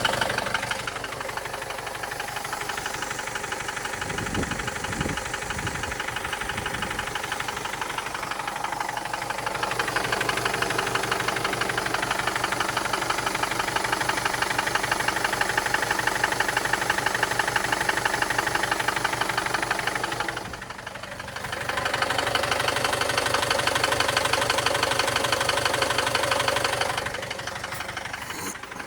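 Mercedes-Benz OM611 four-cylinder diesel engine running, with a rapid, even knocking heard over the engine note: an extraneous knock whose cause is not identified.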